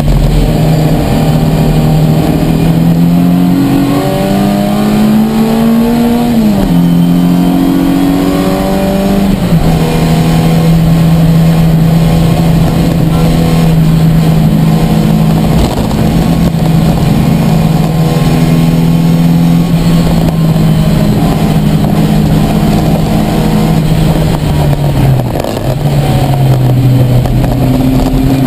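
Ford Fiesta race car's engine heard from inside the stripped cabin, revving hard with pitch climbing, then dropping sharply at a gear change about six and a half seconds in. It then holds a steady high pitch for about fifteen seconds and drops again as the driver eases off near the end.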